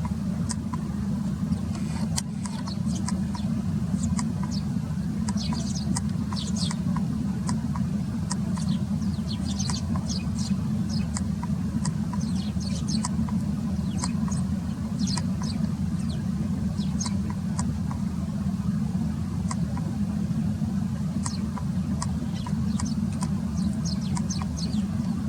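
Flock of Eurasian tree sparrows chirping: many short, high calls scattered throughout, over a loud, steady low rumble.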